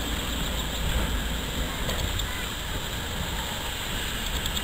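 Steady low rumble of a slow-moving train pulling away along the track.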